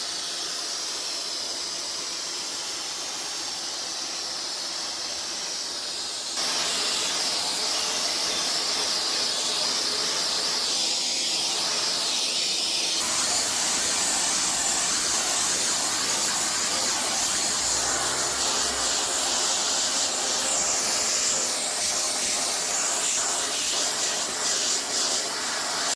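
Total TVC1412 800 W wet and dry vacuum cleaner running with its brush attachment, a steady rushing hiss of air through the hose. It gets louder about six seconds in.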